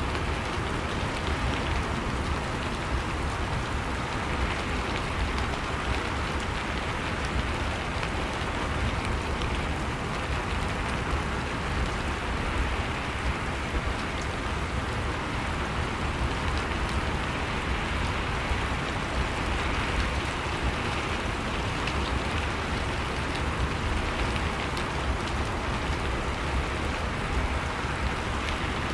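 Steady heavy rain falling and pattering on surfaces, a dense even hiss with a low rumble underneath and no break in its level.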